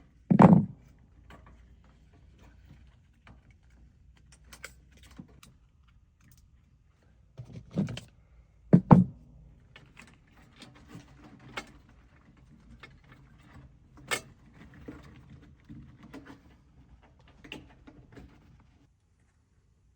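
Heavy thunks and scattered clicks and rattles of metal parts and tools being handled, the loudest thunk near the start and two more about eight and nine seconds in, over a faint low hum that stops shortly before the end.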